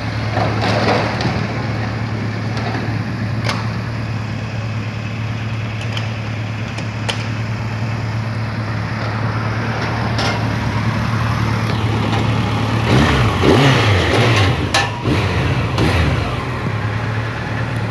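Honda CB1100's air-cooled inline-four engine idling steadily, with a few quick throttle blips that rise and fall in pitch about thirteen to fifteen seconds in.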